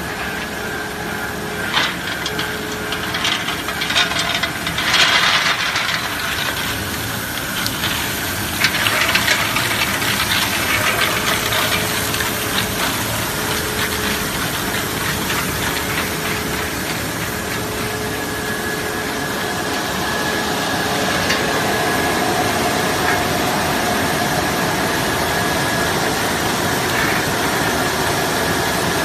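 Brush washing machine running, a steady motor hum with a hissing wash noise and irregular clattering in the first ten seconds or so. It gets a little louder about two thirds of the way through.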